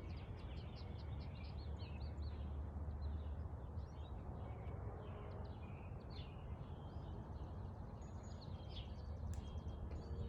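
Morning chorus of several songbirds chirping and singing, including a run of quick repeated notes near the start, over a steady low rumble.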